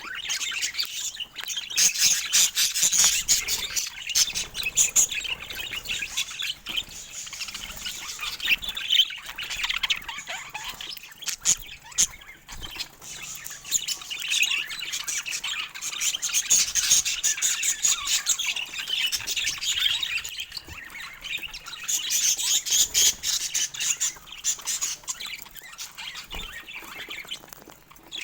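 Budgerigars chattering: a dense, continuous warble broken by many short sharp chirps.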